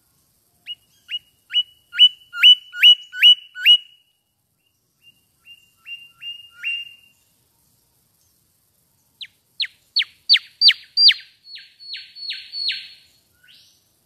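Mangrove whistler singing three phrases of clear whistled notes, each note held briefly and then dropping sharply in pitch. First comes a phrase of about eight notes, then a softer phrase of four or five. In the second half comes a higher run of about eleven notes.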